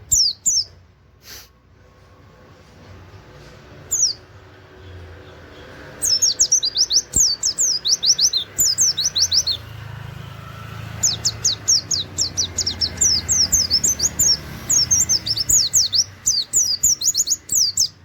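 Pleci (white-eye) singing its rapid 'nembak' shooting song, with 'wit wit' and canary-like phrases. The song is fast runs of high-pitched sweeping notes, several a second. A few single notes come first, then a dense run about six seconds in and a longer run from about eleven seconds on.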